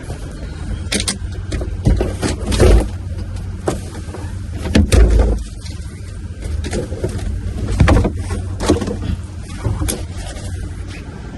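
Items being handled and rummaged through: irregular knocks, bumps and clatters, with heavier thumps a few seconds in and near the middle, over a low rumble.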